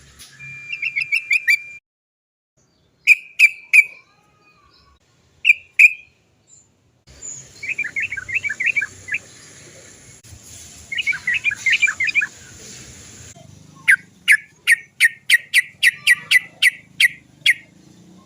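Yellow-vented bulbul (trucukan) calling with short, sharp repeated 'cok cok cok' notes in separate bursts, with two quick chattering flurries in the middle and a long run of about a dozen evenly spaced notes near the end.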